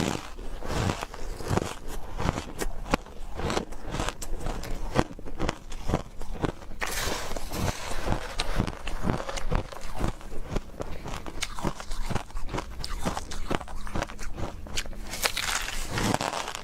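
Close-miked chewing of refrozen powdery ice: a steady run of soft crunches, about three a second. A louder, hissier crunch comes about seven seconds in and again near the end, like fresh bites into the ice.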